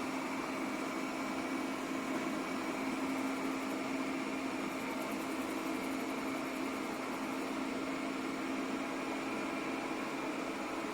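Airzeen R7 robot vacuum running: a steady motor whir with a constant low hum that does not change.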